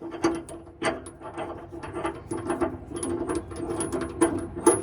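Rapid, uneven metallic clicking and clinking from hand tools and blade-bolt hardware under a mower deck.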